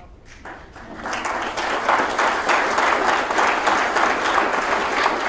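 Audience applauding in a large hall, starting softly about half a second in and building to steady clapping by about a second.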